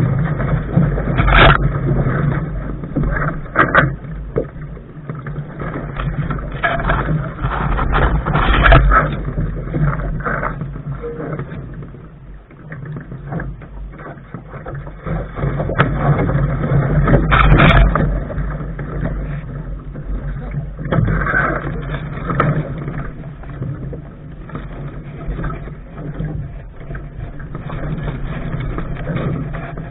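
Water splashing and slapping against the bow of a Lark sailing dinghy under sail, with wind buffeting the microphone and irregular knocks and surges.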